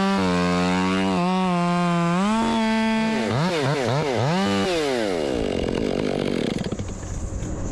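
Two-stroke chainsaw revved up to full throttle and held there through a cut, its pitch dipping slightly under load. About three seconds in it revs up and down several times, then drops off to a low idle.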